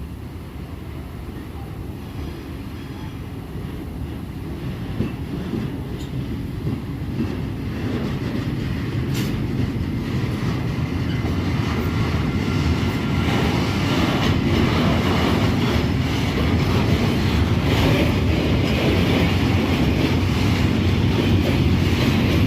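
A train approaching and growing steadily louder, a low rumble with a few sharp clicks from the wheels on the rails.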